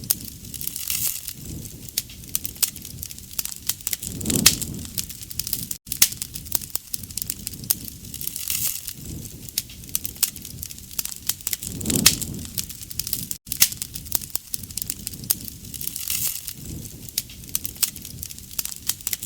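Wood fire burning with dense, sharp crackles and pops over a steady hiss, and a low surge of flame about every seven or eight seconds.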